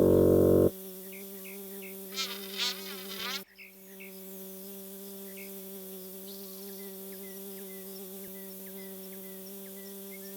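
Steady buzzing of a bee swarm, a cartoon sound effect, with a short loud burst in the first second and a few small high chirps over it.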